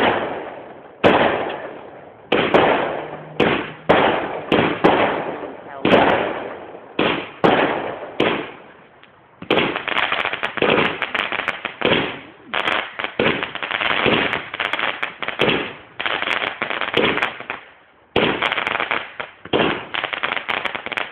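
Aerial fireworks bursting, first as a series of separate loud bangs that each trail off. From about halfway the bangs give way to a dense, rapid crackle of many small reports, which pauses briefly near the end and then starts again.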